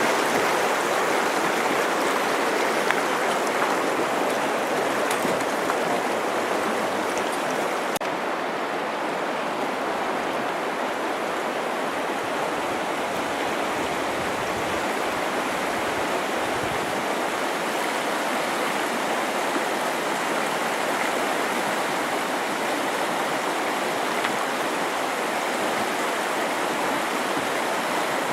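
Steady rushing of river water, an even hiss-like roar with no pitch or rhythm; the highest hiss dies down about eight seconds in.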